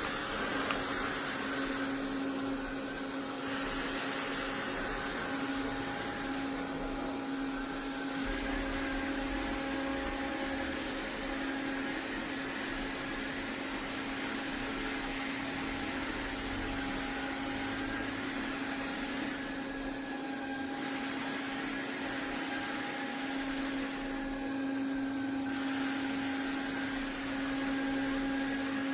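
Robot vacuum running steadily: an even whirring hiss over a constant motor hum.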